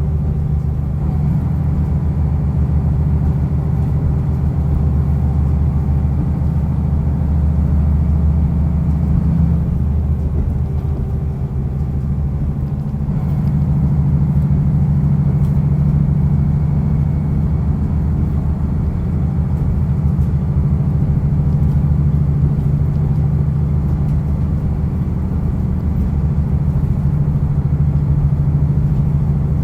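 Diesel railcar running along the line: a steady low engine drone with wheel and rail noise, its engine note shifting about halfway through.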